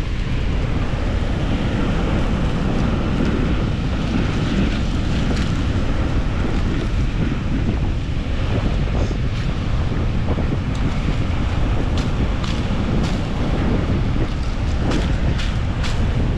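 Strong wind buffeting the microphone in a steady low rumble, with a few light clicks and snaps in the second half.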